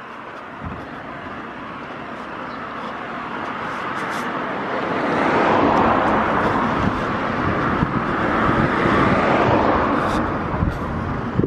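Road traffic: a vehicle's noise builds up and stays loud through the second half, as it would when a vehicle approaches and passes close by.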